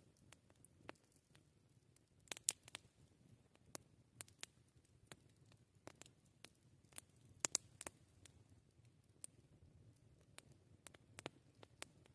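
Wood campfire crackling: sharp, irregular snaps and pops, with the loudest small clusters about two and a half and seven and a half seconds in, over a faint low rumble of the burning fire.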